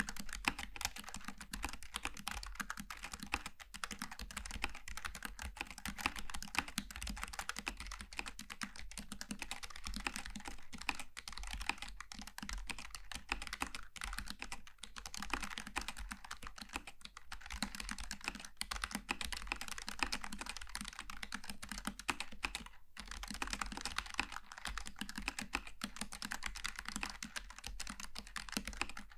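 Continuous fast typing on a Logitech G915 TKL keyboard with low-profile GL Tactile mechanical switches: a steady stream of key clicks. There is a brief pause about three quarters of the way through.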